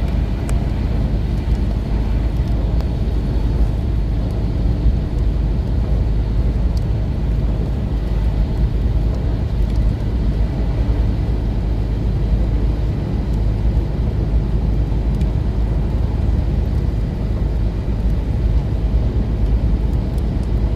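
Steady low rumble of a moving road vehicle, with a few faint ticks over it.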